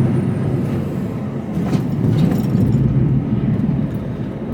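Mercedes Actros lorry on the move, heard from inside the cab: a steady low rumble of engine and road noise.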